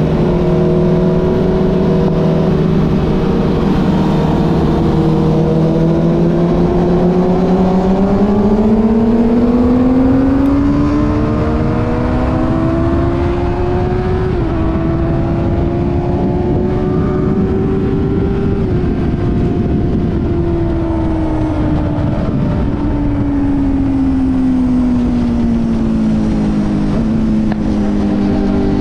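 Motorcycle engine running under way, its note climbing slowly, dipping briefly near the middle, then falling away, over a steady rush of wind and road noise.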